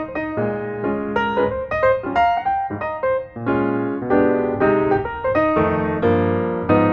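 Solo piano music: a run of notes played one after another, with low bass notes underneath.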